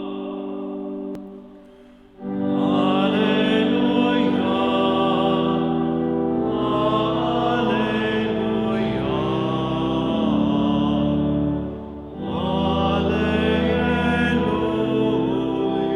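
Sung liturgical music: singing over held organ-like chords. The sound fades to a lull about a second or two in, comes back strongly, and pauses briefly about three-quarters of the way through.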